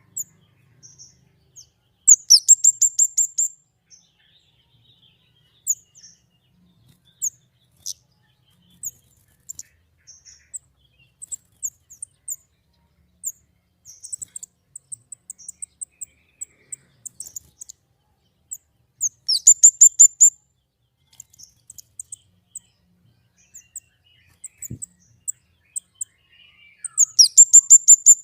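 Small songbird singing high-pitched: three quick trills of rapid chirps, each lasting about a second and a half, come at intervals of about eight seconds, with scattered single chirps in between.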